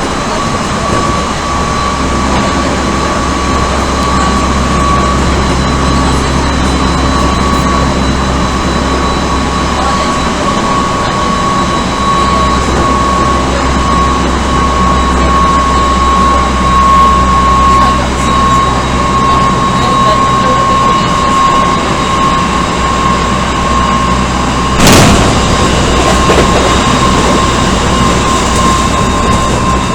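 Odakyu 1000 series electric train with Mitsubishi GTO-VVVF traction equipment running at speed, heard from inside the car: rumble of the running gear under a steady whine that sinks very slightly in pitch. A sudden loud burst of noise comes about 25 seconds in.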